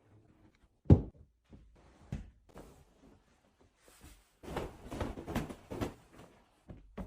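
Cleaning and handling noises: a loud knock about a second in, a few lighter knocks, then a couple of seconds of scrubbing or rubbing.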